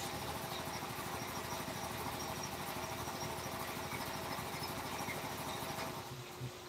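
A small motor running steadily, then stopping about six seconds in.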